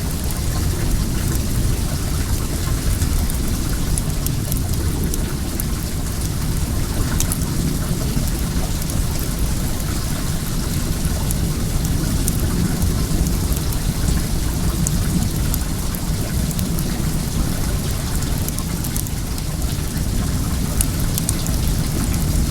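Well water flowing steadily with a low, even rush, while a wood bonfire crackles in small sharp pops scattered over it.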